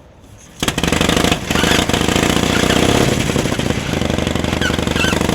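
Vintage pre-1915 motorcycle engine running loud, with a rapid staccato firing beat; it cuts in suddenly about half a second in.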